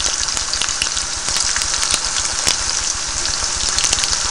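Sliced onions and jalapeno peppers sizzling in hot canola oil in a pan: a steady crackling hiss full of small, quick pops.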